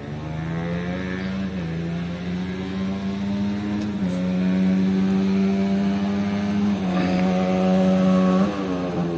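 Motocross bike engine running at fairly steady revs, its pitch stepping down about a second and a half in, up again about four seconds in, and dropping sharply near the end, as with gear changes or throttle changes.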